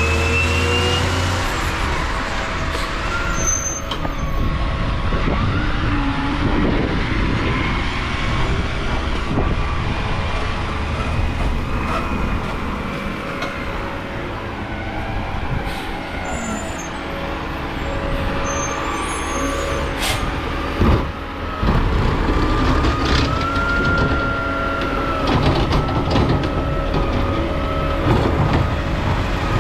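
Garbage truck at work, its diesel engine running with a high wavering whine over it and a single sharp knock about two-thirds of the way through.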